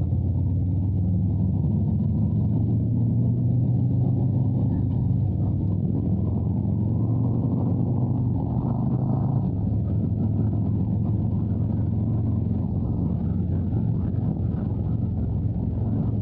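Harley-Davidson Road Glide's V-twin engine running steadily under way, a continuous low rumble.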